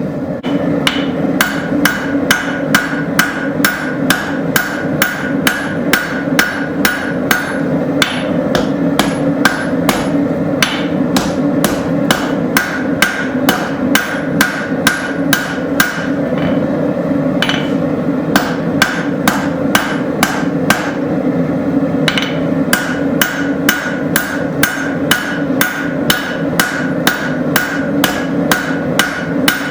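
Straight peen hammer striking a hot railroad spike on the anvil, drawing out the blade: sharp, ringing blows at about two a second in steady runs, with a few short pauses, over a steady drone.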